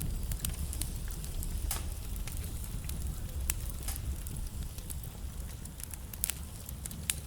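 Wood fire burning in a fireplace: a low steady rumble of flame with scattered sharp crackles and pops from the burning wood, a few louder pops standing out about halfway through and near the end.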